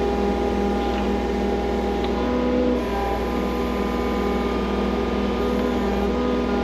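Skid loader engine running steadily under work, an even mechanical drone with no break.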